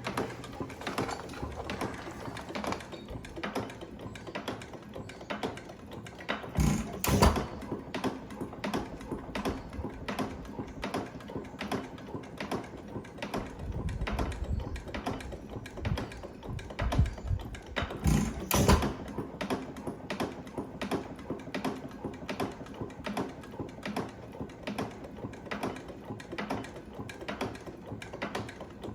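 IHC Famous 2-1/2 hp hit-and-miss gas engine running unloaded: an even, rapid clicking of its valve gear and ignitor while it coasts, broken by a pair of louder firing strokes about 7 seconds in and again about 18 seconds in.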